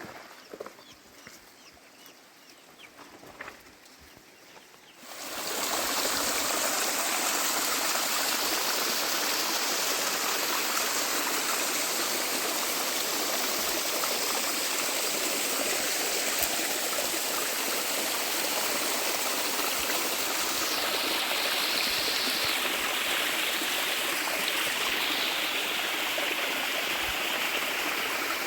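A few faint short sounds over a quiet outdoor background, then about five seconds in a loud, steady rush of flowing water cuts in and continues unbroken.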